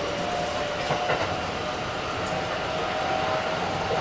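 Keikyu 1700 series electric train running, with its Toyo GTO-VVVF traction equipment. Wheels rumble on the rails under a steady whine, with a few rail-joint clicks.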